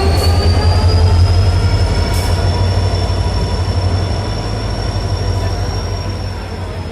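Passenger train rolling past slowly: a heavy low rumble with a high, steady metallic squeal that rises slightly at first and dips near the end, the whole sound slowly fading.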